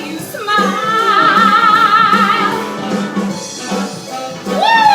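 A woman singing a long held note with wide vibrato over an upbeat backing track with a steady beat, ending the line with a downward slide near the end.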